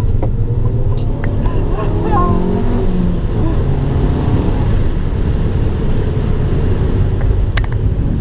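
Abarth 595 Turismo's turbocharged four-cylinder engine running at speed on track, a loud, steady low rumble with the engine pitch shifting in the first few seconds. A few sharp clicks come through, about a second in and near the end.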